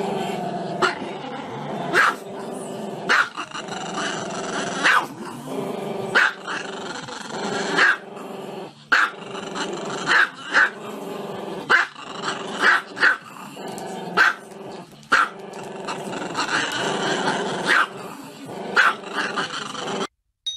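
Small black-and-tan dog growling steadily with its head raised, broken by sharp barks about once a second. The sound cuts off suddenly near the end.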